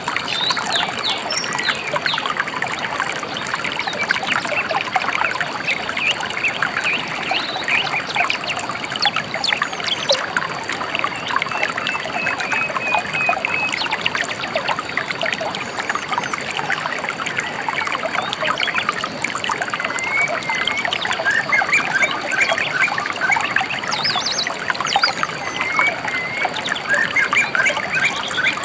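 A gently flowing river trickling and splashing steadily, with small birds chirping over it: a short warbling run about halfway through and several quick chirps near the end.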